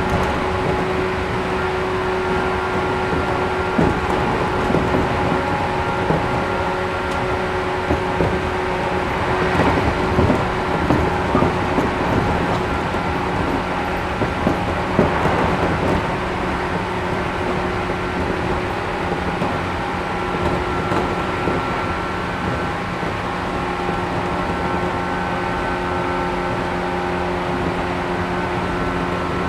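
Cabin running noise of a 113 series 1500-subseries electric train travelling at a steady speed: a constant rumble with several steady hums, and a few brief knocks from the wheels and track.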